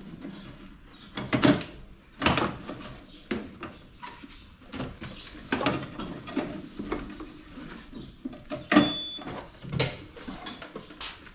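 Wire snips cutting through the wires and tubing of an air conditioner being scrapped, with metal parts knocking as they are handled. A string of sharp snips and clanks comes at irregular intervals, the loudest about nine seconds in.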